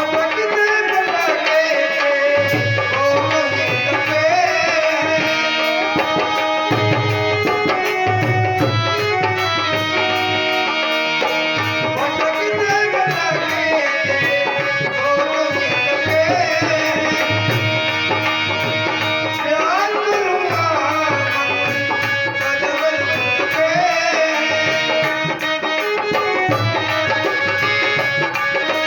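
Devotional bhajan music: a hand drum keeps a steady beat under a sustained, gliding melody.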